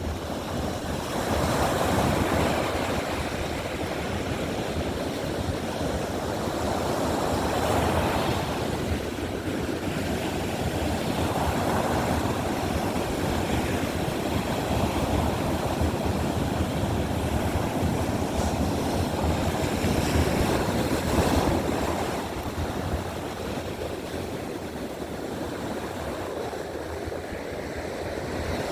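Baltic Sea surf breaking and washing ashore: a steady rushing that swells every few seconds, with wind rumbling on the microphone.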